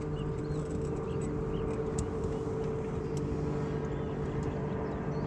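Small aluminum fishing boat's motor running at a steady, even hum, with a few faint clicks over it.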